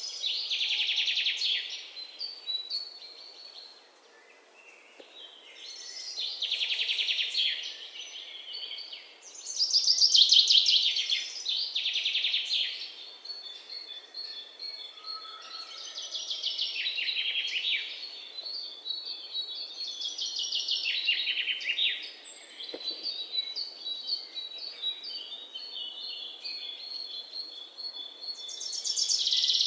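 Songbirds singing: bursts of rapid, high chirps lasting a second or two come every few seconds, with a thin, steady high note between them.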